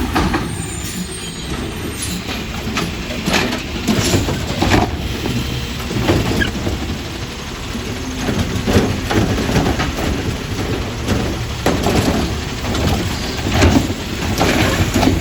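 Garbage truck engine running steadily, with repeated short hisses and knocks over it.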